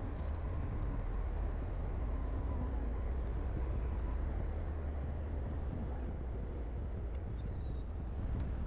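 Heavy earthmoving machine's diesel engine running steadily, a constant low rumble.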